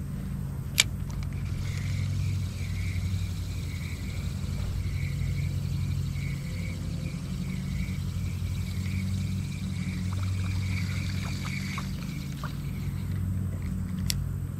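Steady low hum of a kayak's small electric motor running, with a sharp click about a second in and a few light ticks later.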